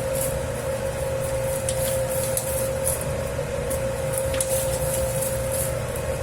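Dough kneading machine working a 10 kg flour batch of pizza dough: a steady motor hum over a low rumble, with irregular short noises from the dough being worked in the bowl.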